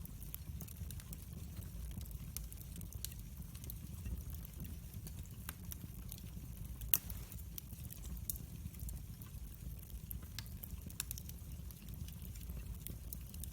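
Fireplace fire crackling: scattered sharp pops and snaps over a low, steady rumble of the flames, with one louder pop about halfway through.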